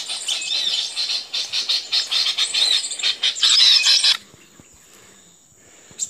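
Small birds chirping and squeaking rapidly and densely at high pitch, cutting off suddenly about four seconds in. After that only a faint, steady high insect buzz remains.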